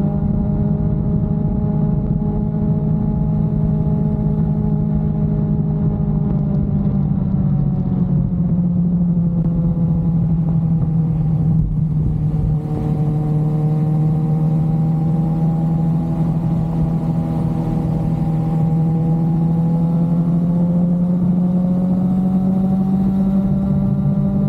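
Motorcycle engine running at cruising revs under the rider. The revs ease off over several seconds, drop out briefly about halfway through, then hold and rise a little near the end.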